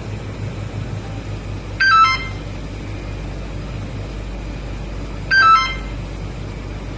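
2006 Infiniti FX45's V8 engine idling steadily after a remote start. A short electronic chime of a few stepped tones sounds about two seconds in and again about five and a half seconds in.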